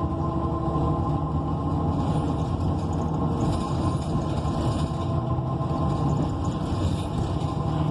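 Interior of an ENC EZ Rider II transit bus underway: the Cummins Westport ISL G natural-gas engine and Allison automatic drivetrain running with road noise, a steady low rumble with a faint steady whine above it.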